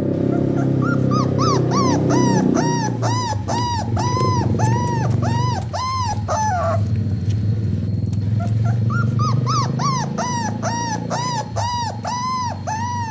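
Dog giving a run of short, high, arched yelps about two a second, each run ending in a falling whine, with the run repeated after a pause of about two seconds. A low steady rumble sits underneath.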